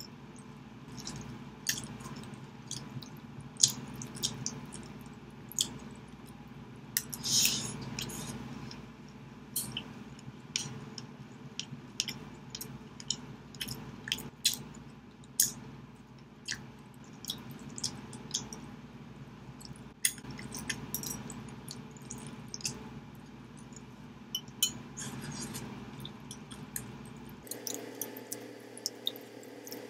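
Close-up chewing of tender roast chicken, with many short wet smacks and mouth clicks at irregular moments.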